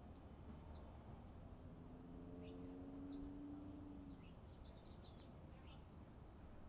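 Faint, scattered short high chirps of small songbirds, a few every second or so. A faint low hum rises and fades between about two and four seconds in.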